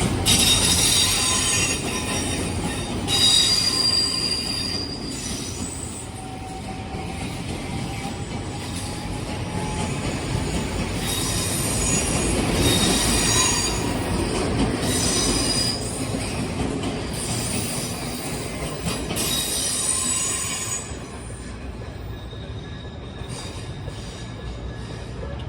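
Odakyu Odawara Line train running past, its wheels squealing in repeated spells of high-pitched screech over a steady rumble. The squeal stops about 21 seconds in, leaving a quieter rumble.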